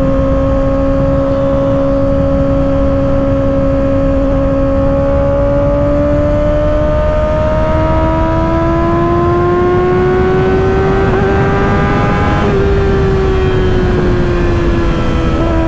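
2024 Kawasaki ZX-6R's inline four-cylinder engine through an M4 aftermarket exhaust, running steadily at freeway cruise. About halfway through it rises in pitch as the throttle opens, then eases off and falls near the end, with wind rush underneath.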